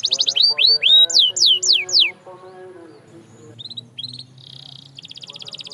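Canary singing: a run of loud, descending whistled notes for about two seconds, then a quieter stretch with a few short notes, and a fast buzzy trill starting near the end.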